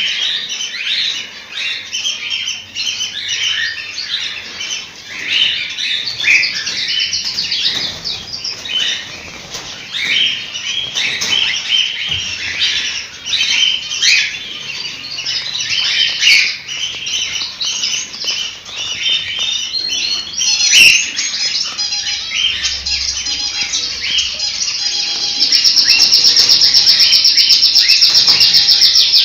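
Many cockatiels chirping and calling at once in dense, overlapping chirps. There is a sharp click about two-thirds of the way through, and near the end a fast, even rattle sets in over the chirping.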